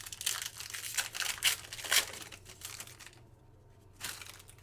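Football trading cards and their pack wrapper being handled and flipped through: a quick run of rustles, scuffs and crinkles for about three seconds, then one more short rustle near the end.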